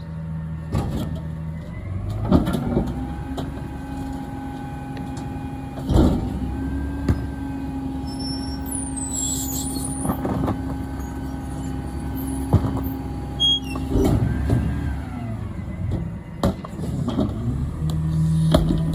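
Garbage truck's engine revving up and holding a steady raised pitch for about twelve seconds, then dropping back to idle, with several loud metal clanks and bangs along the way, typical of the truck working its lift and packer.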